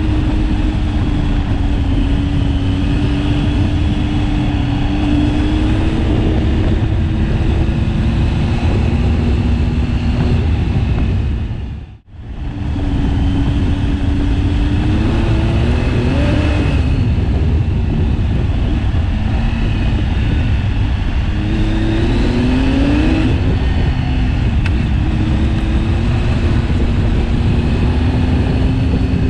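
KTM 1090 Adventure's V-twin engine running while ridden, its pitch rising and falling with the throttle a few times, under a heavy wind rumble on the bike-mounted microphone. The sound dips almost to silence for a moment about twelve seconds in.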